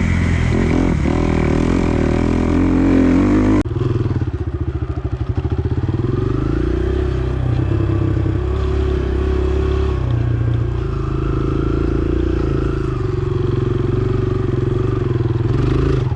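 Motocross dirt bike engine running on the throttle, its pitch rising and falling. About three and a half seconds in the sound changes abruptly and the engine runs lower and a little quieter.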